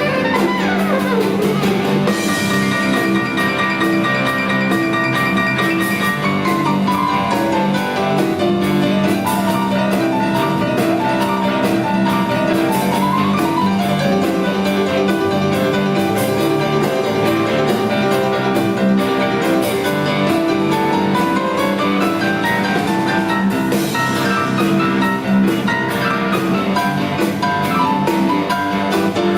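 A live blues-rock band playing an instrumental passage of a song, with a drum kit keeping the beat under a melodic lead with sliding notes.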